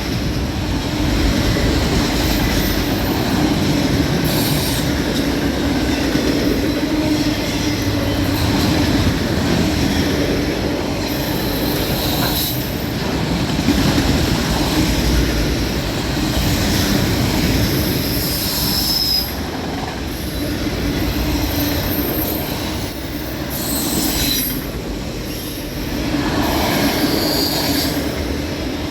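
Cars of a CN freight train rolling past, a steady rumble of wheels on rail with intermittent high-pitched flange squeal that comes and goes.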